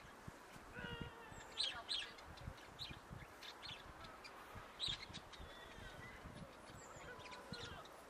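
Faint chirping of small birds, a scatter of short high calls and a few gliding ones, with soft low rustles and bumps underneath.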